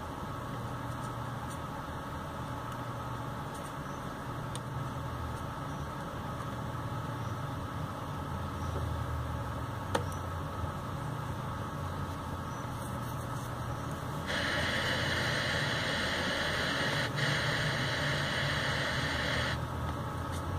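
Steady low hum with a single click about halfway through; about two-thirds of the way in, a Pioneer MVH-88UB car stereo switched over to its FM tuner gives a loud hiss of radio static for about five seconds, which cuts off suddenly.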